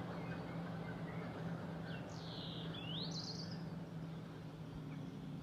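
Quiet outdoor ambience with a faint low steady hum; a bird calls a few times about two to three seconds in, with high chirps that swoop down and up.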